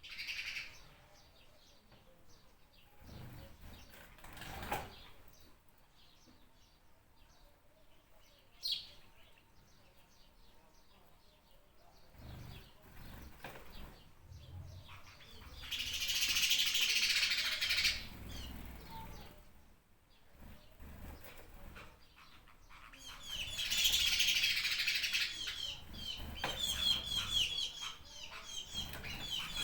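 Small birds chirping and calling, with many short chirps throughout and two dense swells of high chatter, the loudest about sixteen and twenty-four seconds in. From about twenty-five seconds in, one bird repeats a quick chirp several times.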